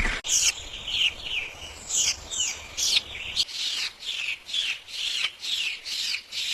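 A parrot chirping over and over: short falling calls, about two a second.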